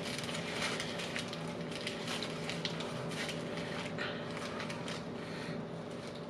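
Two people biting into and chewing large burgers held in paper wrappers: soft wet mouth sounds and many small crackles and clicks, over a faint steady hum.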